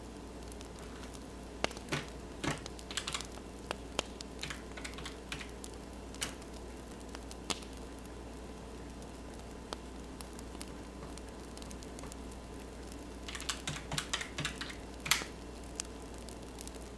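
Pen writing on paper: two short spells of quick scratchy strokes, one in the first half and one near the end, over the steady soft hiss and crackle of a wood fire.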